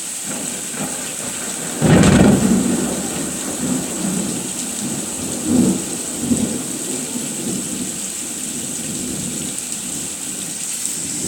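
Heavy rain pouring steadily in a windstorm. A sudden loud rumble of thunder comes about two seconds in and fades over a second or so, with smaller rumbles around the middle.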